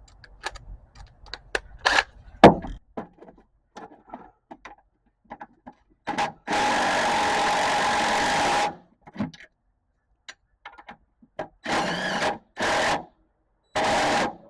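Light metal clicks and taps of tools, then a small power tool runs steadily with a fixed whine for about two seconds, and near the end runs again in three or four short bursts.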